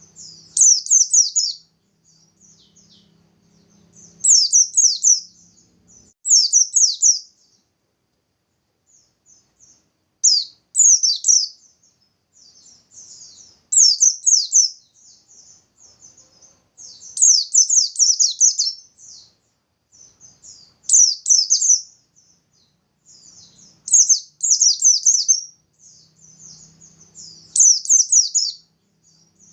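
Pleci (white-eye) singing its fast, high trilled 'nembak' song in short bursts, one about every two to four seconds.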